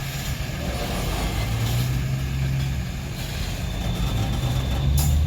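CSX freight train of lumber cars rolling past close by under hard braking: a continuous heavy low rumble of wheels on rail, with a faint steady high squeal coming in about three seconds in and a short sharp clank near the end.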